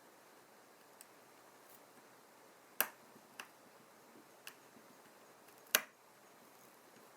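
Scattered sharp clicks and taps of small tools and iPhone parts being handled during a battery replacement, two of them louder, over a faint steady hiss.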